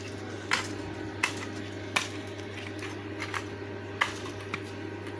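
A few sharp clicks and light knocks at uneven intervals, about four clear ones, from craft materials being handled and set down, over a steady low hum.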